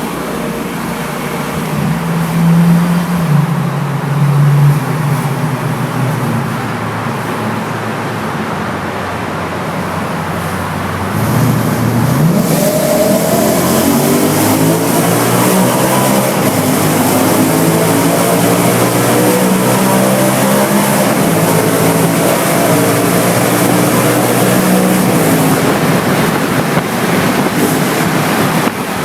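BMW M3 E93's 4.0-litre V8 heard through an Akrapovic Evolution exhaust: idling with two short throttle blips in the first few seconds, then from about eleven seconds in held at higher revs, the note rising and falling.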